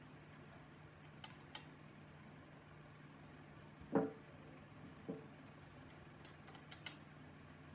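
Scattered light clicks and ticks, with two louder knocks about four and five seconds in, over a faint steady low hum.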